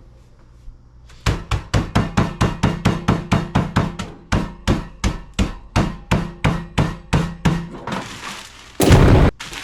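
Rapid, forceful pounding on a bag of crispy fried onions to crush them, about four blows a second, then a louder, rougher crash near the end.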